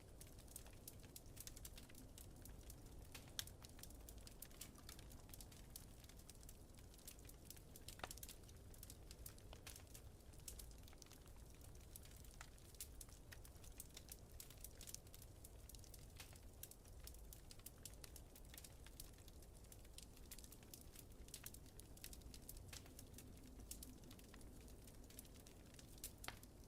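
Faint wood fire crackling: many small irregular pops and snaps over a low steady rumble, with a couple of sharper pops, one about three seconds in and one about eight seconds in.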